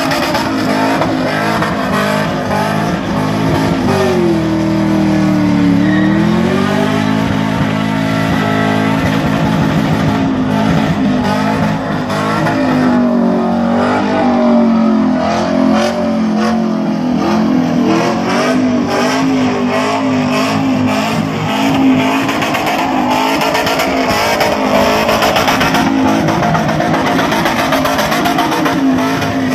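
Supercharged car engine held at high revs during a burnout, the revs dipping and climbing back about four to six seconds in and wavering after that, over the hiss and squeal of spinning tyres on a wet surface.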